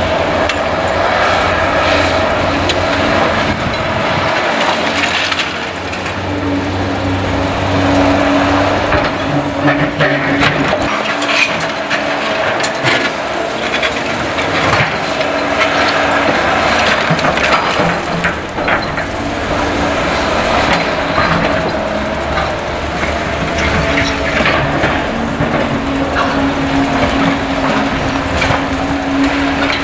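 Caterpillar excavator diesel engines running under load, with a steady hum that strengthens and fades as they work. Over it come many sharp cracks and crunches of demolition rubble being broken and shifted.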